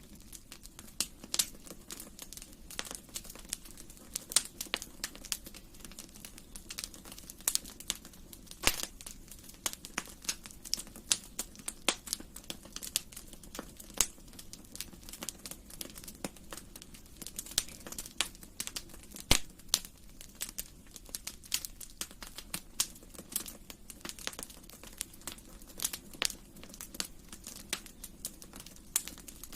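Wood fire burning in a fireplace, crackling with irregular sharp pops and snaps over a faint steady hiss of the flames.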